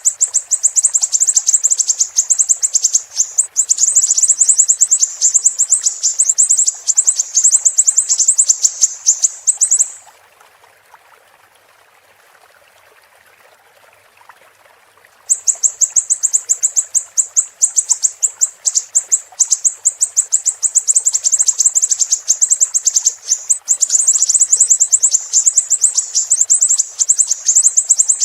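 Siri-siri songbird singing a fast, high-pitched chattering song of short notes repeated many times a second, pausing for about five seconds near the middle before starting again. A faint steady trickle of running water sounds beneath it.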